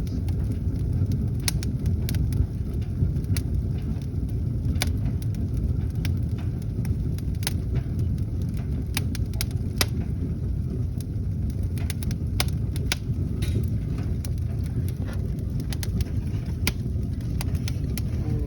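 Newly lit wood fire of newspaper and kindling burning in a fireplace: irregular sharp crackles and pops over a steady low rumble.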